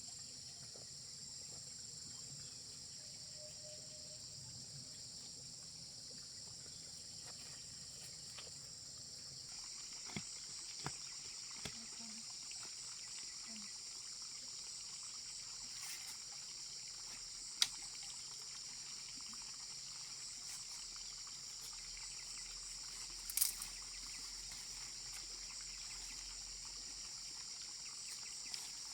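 Outdoor insect chorus, a steady high-pitched shrilling of crickets or similar insects, with a few short sharp clicks or taps, the loudest one late on.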